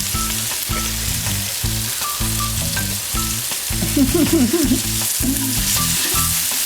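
Curry base of onions, tomato and ginger-garlic paste sizzling steadily as it fries in coconut oil in a pan, with a spoon stirring it.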